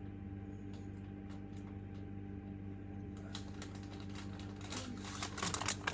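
A steady low hum, joined about halfway through by a growing run of sharp clicks and crinkly rustling, like small objects or packaging being handled.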